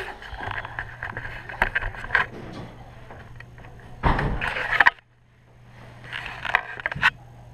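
Handling noise: rustling, scraping and knocking, louder for about a second near the middle, over a steady low hum.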